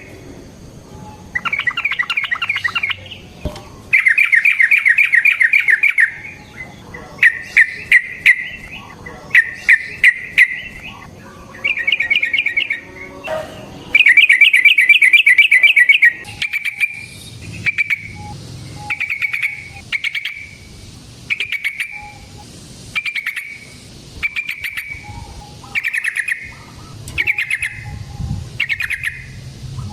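Yellow-vented bulbul (trucukan) singing long rapid bubbling rolls of notes, followed by short repeated phrases about every second and a half.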